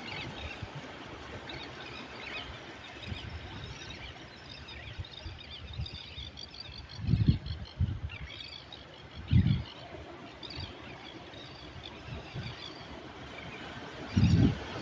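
Seaside ambience: small birds chirping over a steady rush of the sea, with three brief low thuds, about seven, nine and fourteen seconds in.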